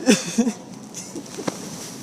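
A person's voice making two short syllables, then a single sharp click about a second and a half in.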